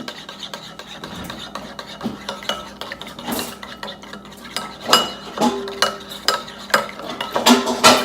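Dishes and cutlery being handled: scattered knocks and clinks of plates, bowls and a spoon, some ringing briefly, growing busier in the second half.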